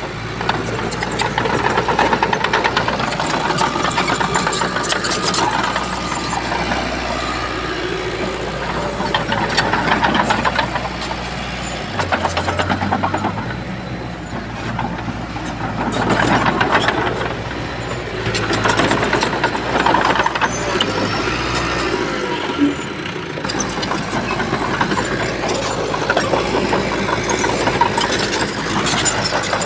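Heavy diesel engine of earthmoving machinery running steadily, swelling in loudness several times as it works under load, with metallic clatter throughout.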